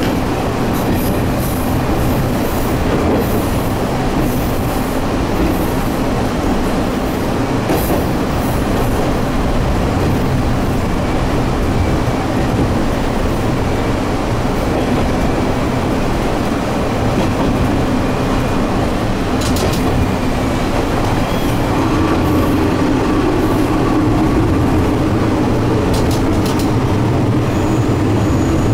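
A diesel railcar on a JR Yodo Line local train running steadily along single track, heard from inside the car: a continuous engine drone with wheel and rail noise. A few sharp clicks come from the running gear along the way.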